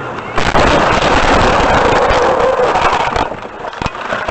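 Loud vehicle noise that starts suddenly about half a second in and holds for about three seconds as an even rush, then dies down with a few sharp knocks.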